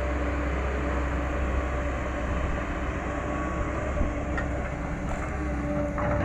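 Caterpillar 318 hydraulic excavator running steadily under load while digging, its diesel drone carrying a steady whine, with a few brief knocks from about four seconds in.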